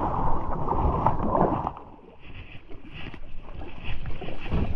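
Creek water rushing and splashing around a kayak being paddled hard toward rapids. It dips quieter about halfway through, then builds again.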